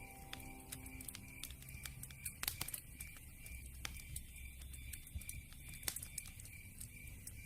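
Campfire crackling: irregular sharp pops and snaps over a soft low rumble.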